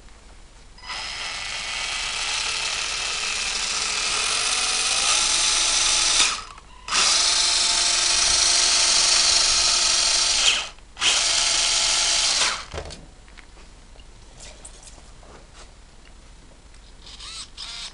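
Brushless RC motor, a 13.5-turn motor on a 150 A speed control, whining as it spins the steel-sprocket chain drive. It runs in three throttle bursts: a long one that gets steadily louder as it speeds up, then two shorter ones. Each burst cuts off suddenly.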